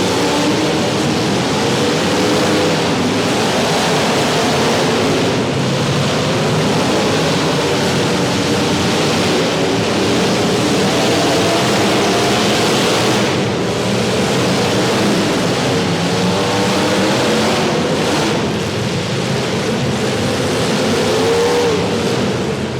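Several demolition derby cars' engines running and revving at once, their pitches rising and falling and overlapping in a steady loud din.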